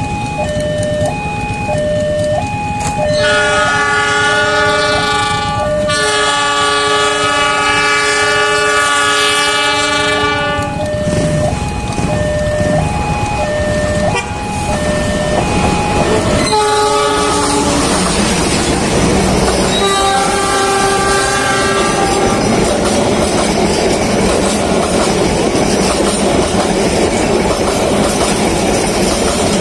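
Level-crossing warning alarm alternating between two pitches, then a diesel locomotive's multi-note horn sounding one long blast and later two shorter ones as the train approaches. The passing passenger train then fills the rest with a loud rumble and wheels clattering over the rails.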